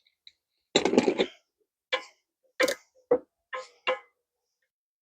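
Small steel needle-bearing pins from a universal joint falling out and clinking on a hard surface. There is a short rattling cluster about a second in, then five single metallic ticks over the next two seconds.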